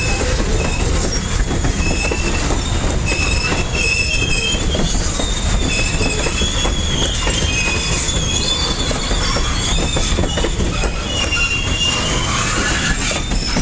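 Freight cars of a long, heavy loaded corn train rolling past at close range: a steady low rumble and clatter of wheels on rail, with short high wheel squeals coming and going.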